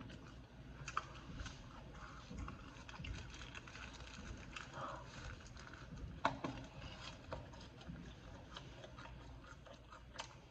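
A person chewing a chopped cheese sandwich on a hero roll close to the microphone: irregular wet mouth clicks and smacks, with a louder bite a little after six seconds in.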